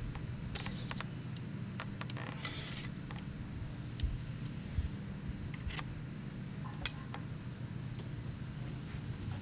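Steady high-pitched chirring of crickets over a low steady hum, with a few scattered light clicks and a short scrape about two and a half seconds in.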